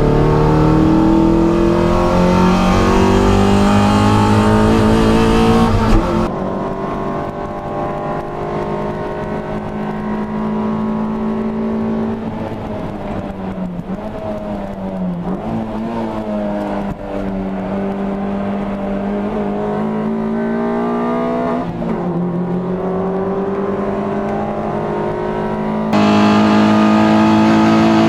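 Toyota MR2 race car engine at racing speed, its pitch climbing under acceleration and dropping sharply on lifts and downshifts. The sound turns quieter and duller about six seconds in and louder again near the end.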